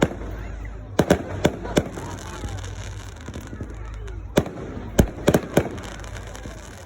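Fireworks exploding in a series of sharp bangs, several in quick succession about a second in and another cluster a few seconds later.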